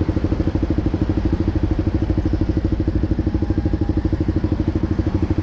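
Honda Sonic 150R's 150cc single-cylinder four-stroke engine idling through a Proliner TR1R Short aftermarket exhaust, a steady, even, fast-pulsing exhaust note that holds at one speed.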